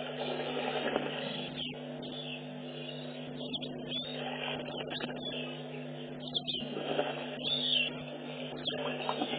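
Birds calling in the open, with short chirps every second or so over a steady low hum.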